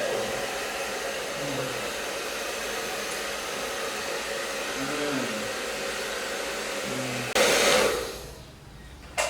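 Hair dryer blowing steadily. About seven seconds in it gets louder for a moment, then dies away, and a sharp click follows near the end.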